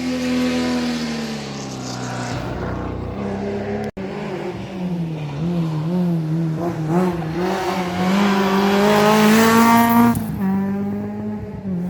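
Historic rally car engine running hard. Its pitch falls, then after a sudden break about four seconds in it wavers up and down, climbs to its loudest and drops away near the end.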